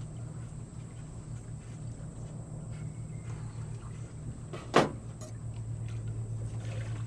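Steady low mechanical hum, growing slightly louder near the end, with one sharp knock almost five seconds in.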